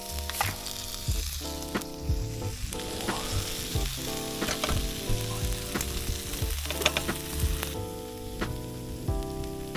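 Food sizzling and frying in a pan over a campfire, with a few sharp clicks from stirring, under soft background music.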